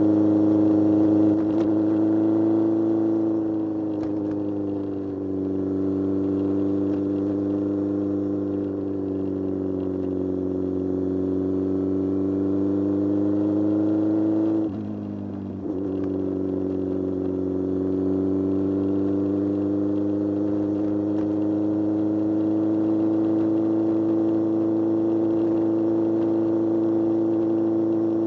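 Kawasaki Z1000 inline-four motorcycle engine running loud under way, its revs drifting slowly down and back up. About halfway through, the revs and loudness dip sharply, then pick up again.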